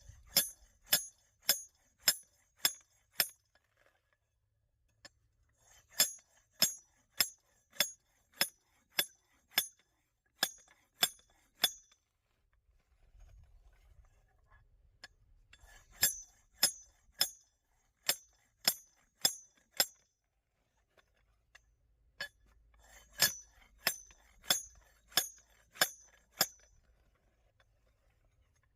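Hammer striking quartz rock to break out samples from a vein: sharp, ringing metal-on-stone clinks at about two a second, in runs of six to twelve blows with short pauses between.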